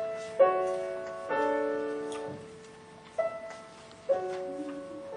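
Piano playing a slow passage: four chords struck about a second or two apart, each left to ring and fade. To the presenter the passage sounds like birds.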